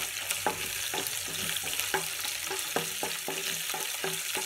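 Crushed garlic, green chillies and curry leaves sizzling in hot oil in a non-stick kadai. A wooden spatula stirs them, knocking and scraping on the pan about three times a second.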